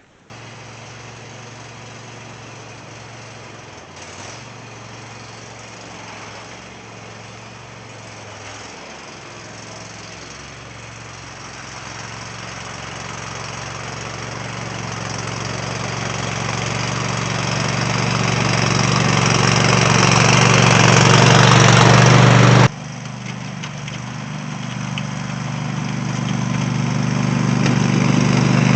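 Cub Cadet lawn tractor engine running at a steady pitch while plowing snow, growing steadily louder. It drops sharply about three-quarters of the way through, then builds again.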